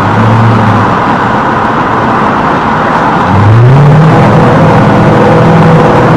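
Toyota Crown Majesta V8 through a full straight-through exhaust with a Zegus Speed Margay rear section, echoing inside a tunnel. Its steady drone eases off about a second in, then a little over three seconds in it rises in pitch and grows louder as the car accelerates.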